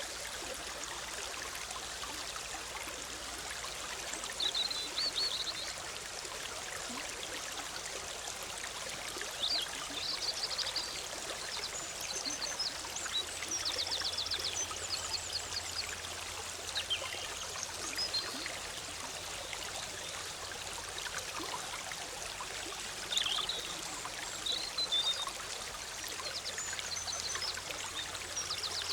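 Forest stream flowing steadily with a constant bubbling rush. Songbirds call now and then over it with short high chirps and a few quick trills.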